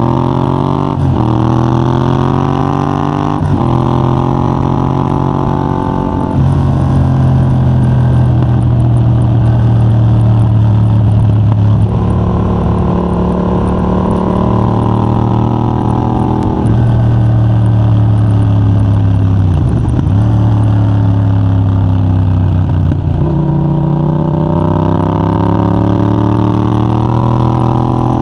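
Yamaha MT-07's parallel-twin engine through a de-catted Mivv GP Pro titanium exhaust with a 35 mm dB killer, ridden hard. The pitch climbs and drops sharply at each gearshift several times, with steadier stretches and a couple of quick dips between pulls.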